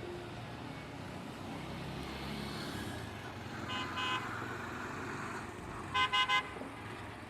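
A diesel locomotive engine rumbling steadily as the train pulls out, with short horn toots cutting in: two quick ones about four seconds in, then three louder ones near the end.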